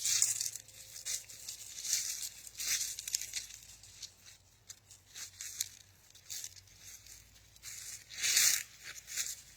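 Irregular rustling and crackling noises with no steady rhythm, loudest at the start and again near the end: the sounds of someone walking outdoors while handling the camera.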